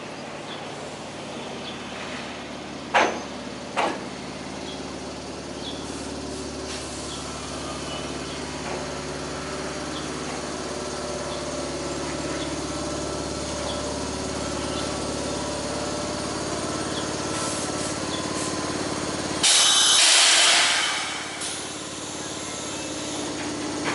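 Electric train running with a steady motor whine that slowly grows louder, two sharp clacks a few seconds in, and a loud burst of hissing near the end.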